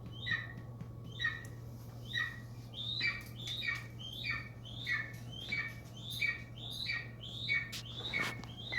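A rapid series of high-pitched squeaky chirps, about two to three a second, each one dropping in pitch, over a steady low hum, with a brief knock near the end.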